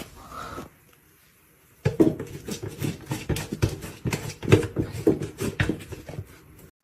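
A pet animal sound: a brief noise, a pause, then about two seconds in a quick, irregular run of sharp clicks and knocks.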